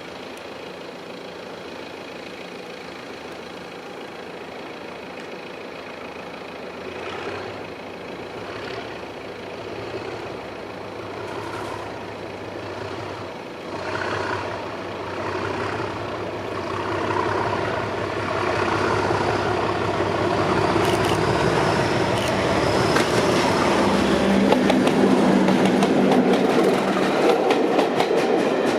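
Class 37 diesel locomotive with an English Electric 12CSVT engine approaching along the line, its engine note growing steadily louder, with a steady low tone strongest near the end.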